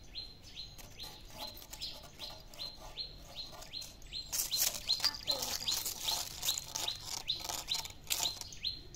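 A bird repeating a short, high chirp about three times a second, steady and evenly spaced. From about four seconds in a dry crackling rustle joins it.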